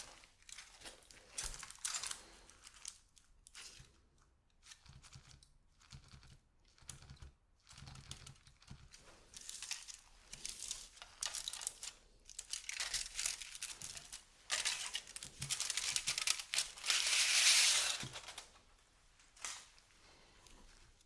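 Chocolate bar packaging being handled and torn open, the wrapper crinkling and tearing in irregular bursts with short pauses. The longest, loudest crinkle comes near the end.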